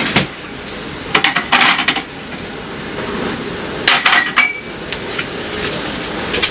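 Plastic clicking and clattering as a dinosaur-shaped pencil sharpener is tried out, with sharp knocks in clusters about a second in and again about four seconds in, and a brief squeak, over a steady rattle.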